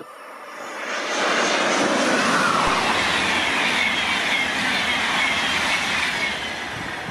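A train passing at speed: a rushing sound of wheels and air swells over the first second or so, then fades slowly, with a high whine that falls steadily in pitch as it goes by.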